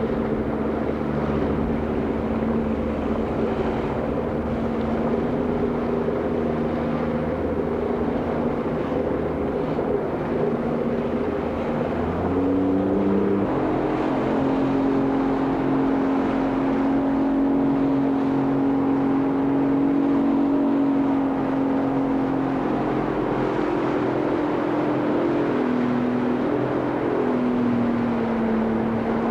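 Motorboat engine running steadily; its pitch rises about 12 seconds in, holds higher, and drops back near the end as the throttle changes.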